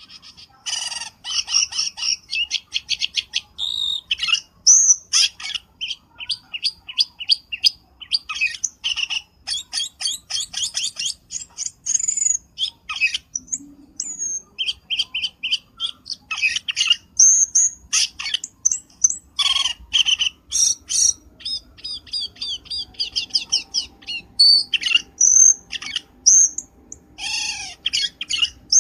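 Cucak keling bird calls: rapid, chattering runs of short high chirps and whistled notes, repeated with only brief pauses. This is a lure call (suara pikat), played to draw in wild birds of the same kind.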